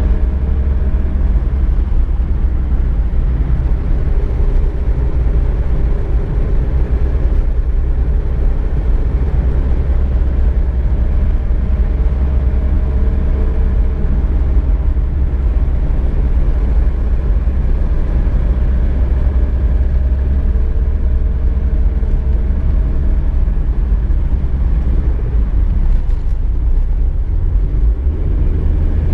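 Car driving at steady speed, heard from inside: a deep, steady engine and road rumble with tyre noise.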